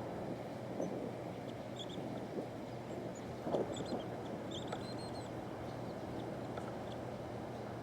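Winter birds calling in short, high chirps, clustered about two to five seconds in, over a steady low rushing noise and a faint hum.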